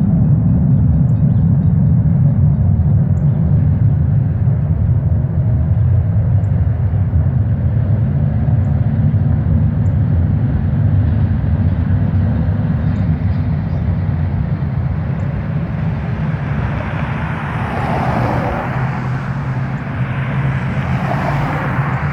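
A loud, steady low rumbling hum with several pitched layers. It is the unexplained noise the recording was made to capture. A rushing noise swells twice near the end.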